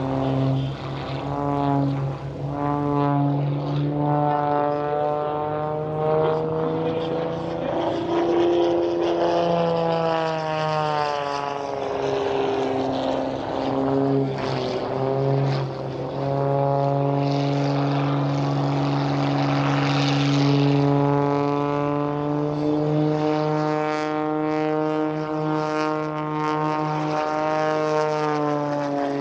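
Piston-engined propeller airplanes flying past, their engine drone rising and falling in pitch as they pass, with more than one engine note overlapping.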